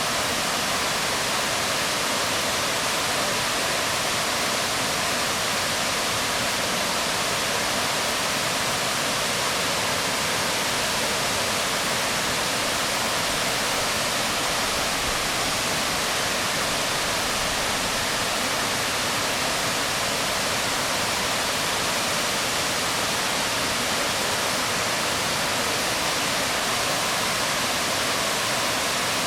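Waterfall splashing onto rocks: a steady, unbroken rush of falling water, its hiss strongest in the upper middle of the range.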